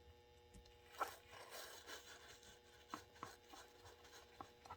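Faint scraping and a few small, sharp clicks of a small screwdriver turning a tiny screw into a metal HO-scale model locomotive.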